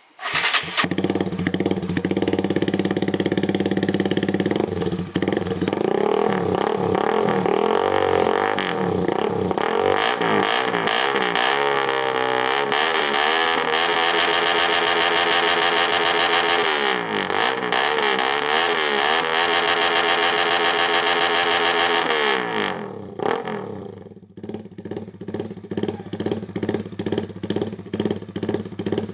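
Suzuki Raider R150 Fi's single-cylinder four-stroke engine breathing through an open full-titanium exhaust with a carbon canister. It starts suddenly and runs at a high idle, then is revved up and down over and over for about fifteen seconds. Near the end it drops back to a lumpy, pulsing idle.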